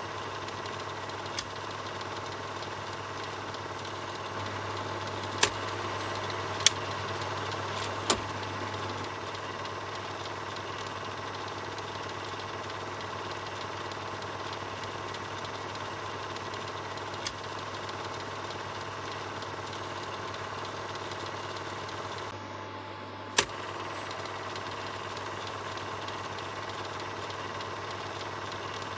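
Film projector running with a steady mechanical whir. A few sharp clicks cut through it: three, a little over a second apart, about five seconds in, and one more about 23 seconds in, just after a brief dip in the sound.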